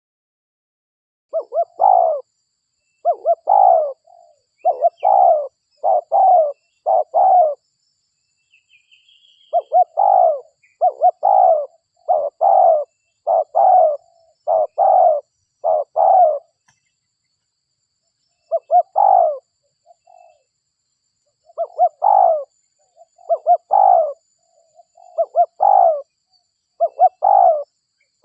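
Spotted dove cooing in three runs of quick, repeated coos, about five or six to a run, with short silent pauses between the runs. This is a lure call meant to draw in other spotted doves.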